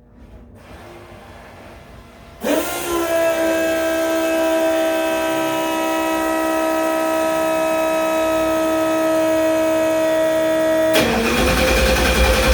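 Cold start of a 13:1-compression small-block Ford V8. About two seconds in, a loud steady whine starts suddenly and holds for about eight seconds; then, near the end, a heavy low rumble comes in as the engine fires.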